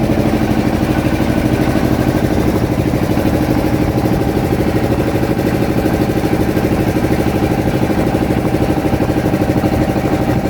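A fishing boat's engine running at a steady speed, with an even, rapid throb.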